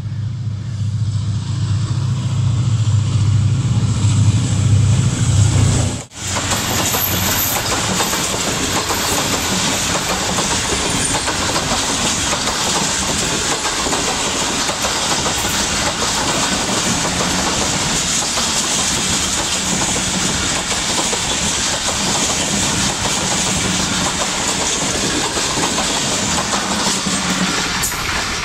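Passenger train passing close at speed. For the first six seconds a diesel locomotive's engine drones low under the rail noise, then cuts off abruptly. After that the coaches roll past with a loud, steady rush of wheels on the rails.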